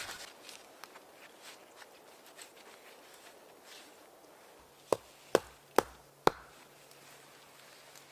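Four sharp chopping strikes about half a second apart, a little past the middle, after a stretch of faint small knocks.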